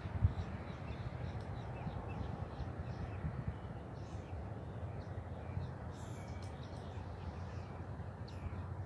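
Outdoor ambience: scattered faint bird calls over a steady low rumble of wind on the microphone.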